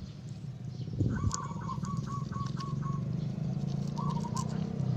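A small bird calling in the background: a quick run of about six short, even chirps about a second in, and a shorter run near four seconds. A steady low hum runs underneath, and there is a soft knock about a second in.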